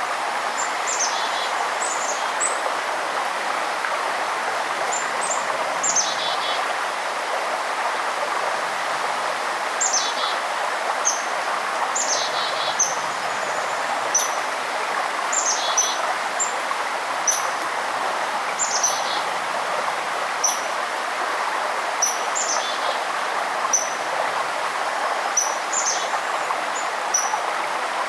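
A stream flowing with a steady rush, while songbirds give short high chirps and quick falling call notes every second or two.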